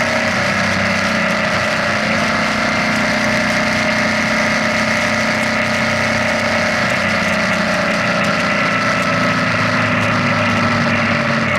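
BMW R nineT's 1170 cc boxer twin engine running at a steady cruising speed, heard from the bike itself, a steady drone whose pitch stays nearly constant.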